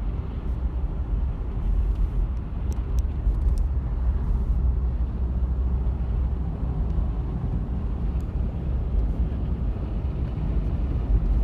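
Hurricane wind blowing steadily in gusts, with a heavy low rumble of wind buffeting the microphone.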